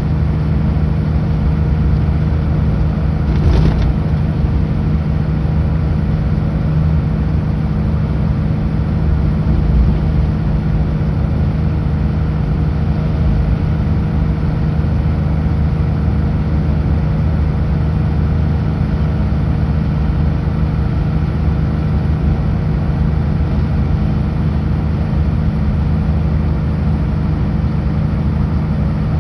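Kenworth W900L semi truck's diesel engine running steadily at highway cruise, with a constant low drone and road noise; a single short knock about three and a half seconds in.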